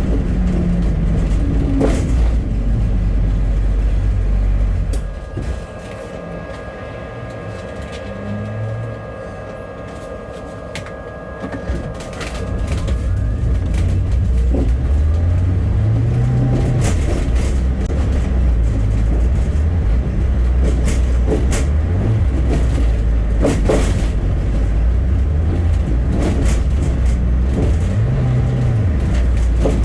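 Diesel bus engine heard from inside the bus. It quietens for several seconds while the bus stands at a stop, then runs up again as the bus pulls away, rising in pitch through gear changes.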